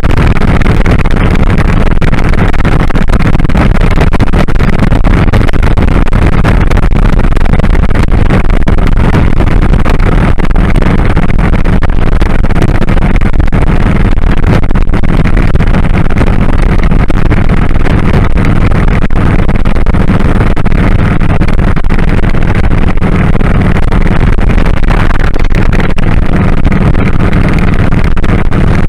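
2001 Kawasaki Drifter 1500's V-twin engine running steadily under way, mixed with loud wind rush on a head-worn camera microphone.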